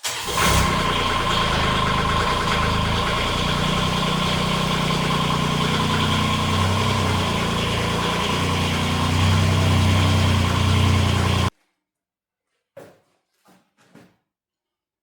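Ford TW10 tractor's diesel engine running steadily, then stopping abruptly about eleven seconds in. A few faint knocks follow.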